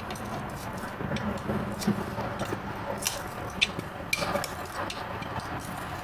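A farrier's tool scraping and picking at a horse's hoof: irregular short scrapes and clicks over a steady background hiss.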